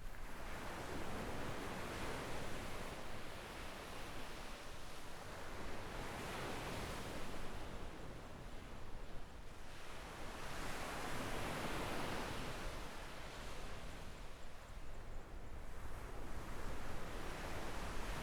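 Small waves breaking and washing up on a sandy shore, each wash swelling and fading about every four to five seconds.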